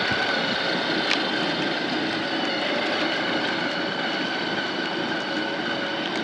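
Four-wheeler (ATV) engine running steadily while riding, a steady whine over a rushing noise.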